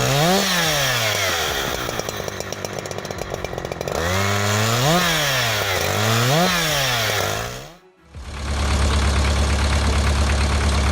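Husqvarna 365 two-stroke chainsaw revving up and down over and over, holding a steadier pitch for a couple of seconds midway. About eight seconds in it cuts off abruptly and a steady low machine drone takes over.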